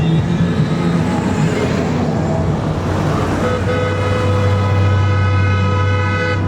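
Honda Gold Wing motorcycles passing in procession with their engines running. About halfway through, a long steady horn-like tone starts over them and is held for about three seconds before it cuts off suddenly.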